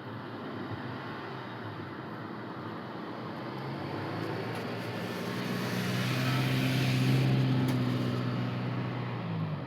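A motor vehicle's engine drawing near and passing, growing louder to a peak about seven seconds in and then fading.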